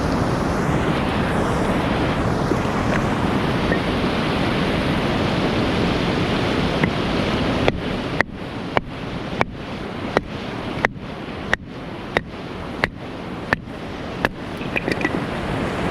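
Steady rushing background noise, then from about halfway a run of about a dozen sharp wooden knocks, roughly one and a half a second: firewood being split by repeated striking.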